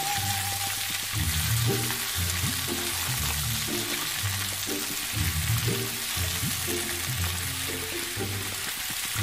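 Food frying in hot oil in a wok, an even sizzle, over background music with a steady, repeating bass line.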